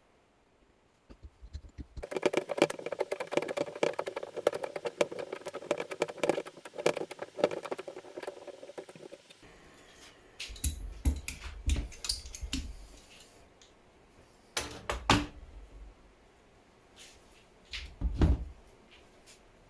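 Workshop work: about seven seconds of rapid, busy scraping and rattling with a ringing tone in it, then a few separate heavy knocks as parts are handled and set down.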